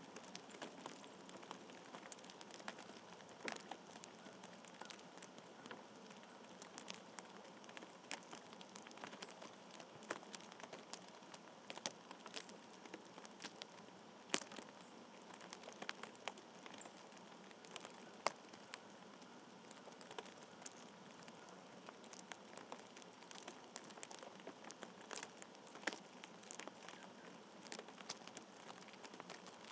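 Faint, irregular light ticks and taps over a steady soft hiss, a few of them sharper, with no regular rhythm.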